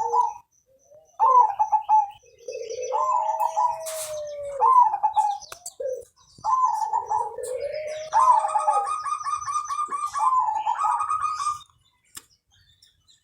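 Zebra dove (perkutut) cooing its song in repeated phrases, each a long, low, arching coo followed by quicker, higher notes. The song stops about three-quarters of the way through.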